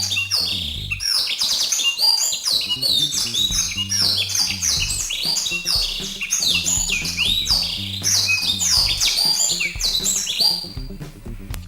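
Busy bird chattering played as a lure call: many quick, overlapping downward-sweeping chirps in rapid succession, over a low, repeating musical backing. The chirping thins out and fades near the end.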